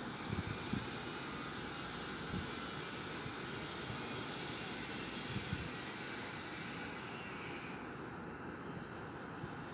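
Airplane flying over, a steady broad roar whose higher part fades away about eight seconds in, with a few soft low thumps along the way.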